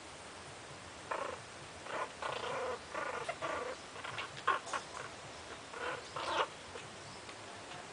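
Chihuahua puppies about five weeks old making a string of short whines and yips, a dozen or so brief calls in a row that stop about six and a half seconds in.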